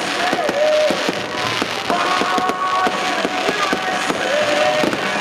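Fireworks going off in a rapid, irregular string of bangs and pops.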